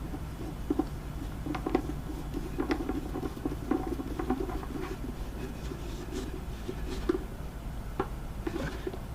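Small clicks, taps and scrapes of plastic parts as a Scanvik sink drain fitting is handled and screwed on hand-tight.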